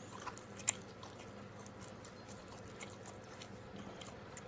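Faint chewing: scattered soft mouth clicks, with one sharper click just under a second in, over a low steady hum.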